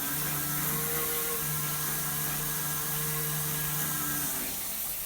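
Shower mixing valve humming with water running through it: a steady low drone with overtones over the hiss of the spray, which drops away about four seconds in. It is a vibration also felt in the handle, which the builder takes for a vibration in the valve cartridge.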